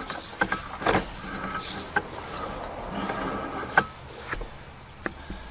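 Sewer inspection camera gear clicking and knocking at irregular moments over a faint steady mechanical hiss.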